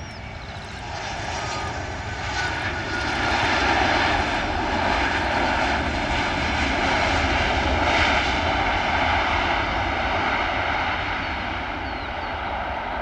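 Airliner's engines passing by, the noise building over the first few seconds, holding loud through the middle, then slowly fading.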